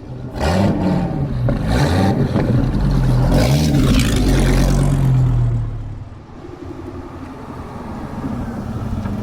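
A car engine revving, its pitch rising and falling several times for about five seconds, then easing off to a quieter, steady running sound.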